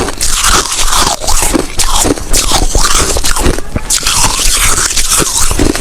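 Close-miked biting and chewing of snow ice: dense, continuous crunching made of many quick, crackly bites.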